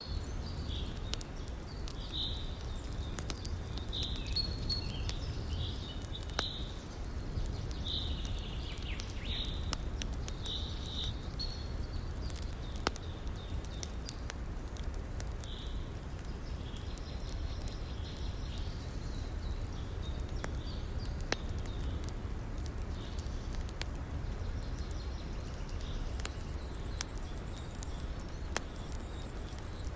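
Campfire crackling with scattered sharp pops over a steady low rush of river water. Bird chirps come in clusters through the first dozen seconds, and a thin high steady tone joins near the end.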